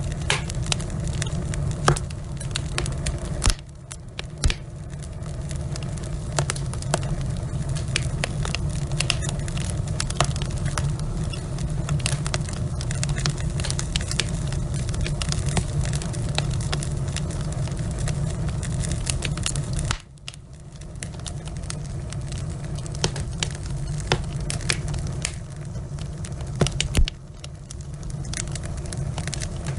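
Wood logs burning in a fireplace, crackling and popping in many sharp irregular snaps over a steady low rumble of the fire. The background drops away suddenly three times, about 3, 20 and 27 seconds in.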